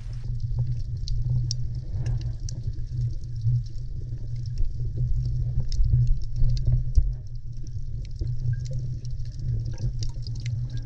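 Muffled underwater sound picked up by a camera: a steady low rumble of moving water with scattered faint crackling clicks.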